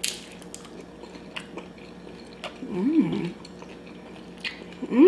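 Crisp bite into a fried crab taquito, then chewing with scattered small crunches. A short hummed voice sounds about three seconds in and again at the very end.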